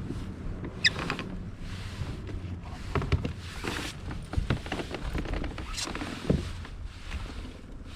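Wind buffeting the microphone with a steady low rumble, broken by scattered knocks, rattles and swishes of gear being handled in a kayak.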